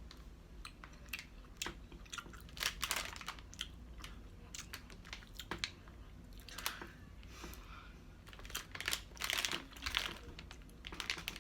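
A person chewing candy close to the microphone, with irregular wet clicks and crackles, and a plastic wrapper crinkling now and then.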